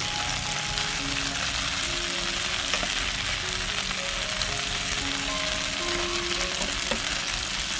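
Batter-coated small shrimp frying in plenty of hot oil, a steady, even sizzle and crackle.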